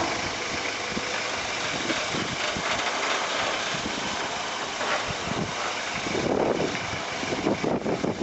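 A vehicle engine running steadily, louder and more uneven from about six seconds in.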